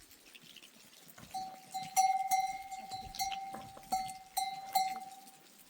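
A metal bell hung on a goat or sheep, clanking irregularly as the animal moves: about six uneven strikes, each ringing on into the next, starting a little over a second in and dying away near the end.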